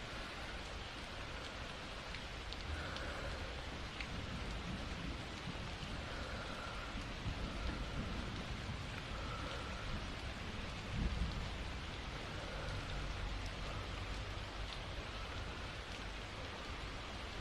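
Steady rain falling, with a low rumble of thunder about eleven seconds in.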